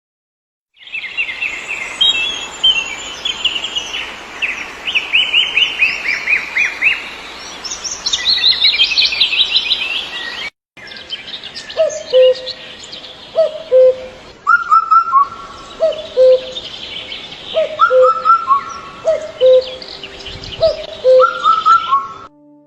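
Wild birds singing: rapid high chirps and trills at first. After a sudden cut about halfway through, a lower call repeats about once every second or so among higher chirps.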